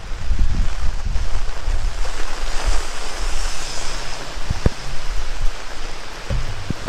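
Heavy rain pouring down in strong wind, with gusts buffeting the microphone in low rumbles. The hiss of the rain swells about halfway through, and a few sharp drip taps land in the second half.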